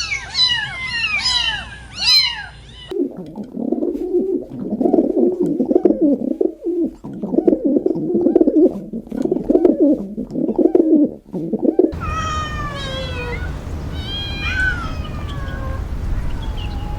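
Kittens mewing in quick, repeated falling calls, then a long run of lower warbling animal calls starting about three seconds in. About twelve seconds in it switches to scattered chirping over a steady background hiss.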